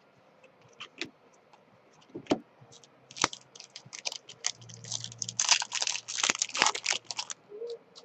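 Trading cards being handled and flipped through: a few scattered clicks, then from about three seconds in a dense run of crackling clicks and rustle that stops shortly before the end.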